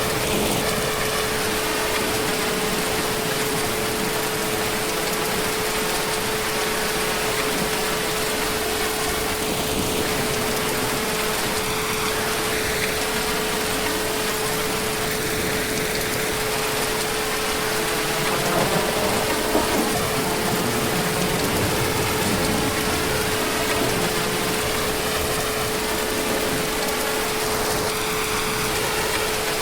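Heavy rain falling steadily, a constant hiss of water, with a steady humming tone running underneath it.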